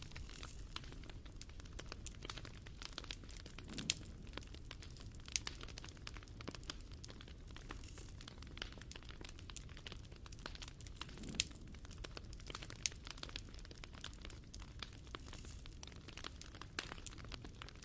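Wood fire burning: a continuous soft rumble of flames with irregular crackling and snapping, and a few louder pops.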